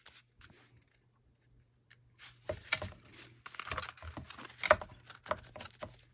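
Sheets of paper being handled and shuffled on a table: a run of rustles and light taps, starting after about two seconds of near quiet.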